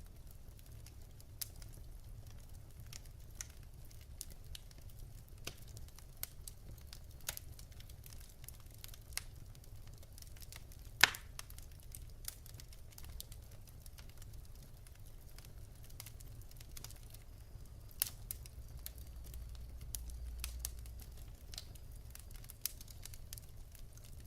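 Wood fire in a fireplace crackling, with irregular sharp pops from the burning logs, the loudest about 11 seconds in and another near 18 seconds, over a low steady rumble.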